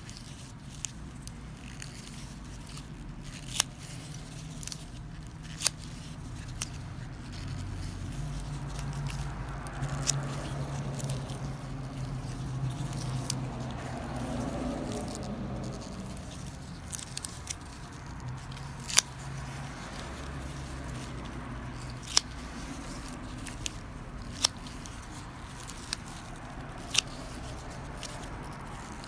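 Scattered sharp clicks and light scraping from hand work on small parts, over a low steady hum.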